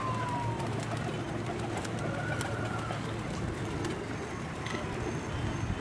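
Domestic pigeons cooing, several birds together making a continuous low murmur. A thin falling whistle sounds just after the start.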